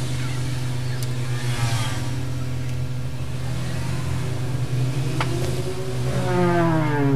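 A motor vehicle engine passing by, its pitch falling near the end, over a steady low hum.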